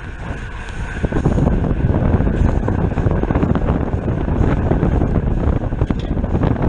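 Wind buffeting the microphone of a camera riding on a racing bicycle at speed. It grows louder about a second in, with a few faint clicks over it.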